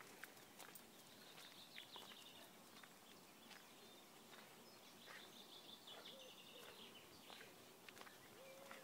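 Faint outdoor quiet with a bird singing short, rapid high trills twice, about a second in and again about five seconds in, over scattered light ticks.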